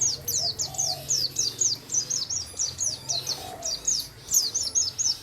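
A songbird singing a fast, unbroken run of high, downward-sweeping chirps, about four or five a second, over the faint steady rush of flowing water.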